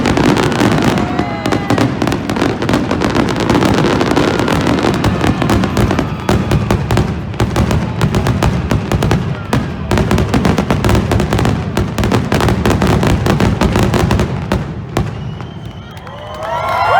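Fireworks display: a dense, rapid barrage of bangs and crackles that thins out near the end, followed by a voice rising in a cheer.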